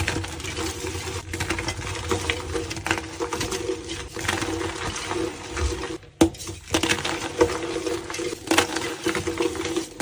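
Blocks of gym chalk being crushed: a dense, crumbly crunching full of small cracks, over a steady low hum, with a brief break about six seconds in.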